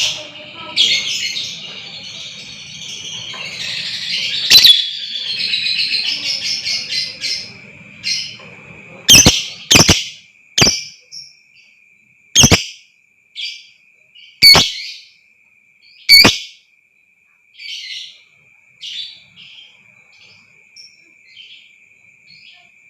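Lovebird chattering, with a long fast trill of repeated notes partway through. This is the 'ngekek' call that bird keepers use as a bait sound to excite a lovebird. Then comes a series of loud, sharp chirps a second or two apart, which fade to fainter calls over a thin, steady high-pitched tone.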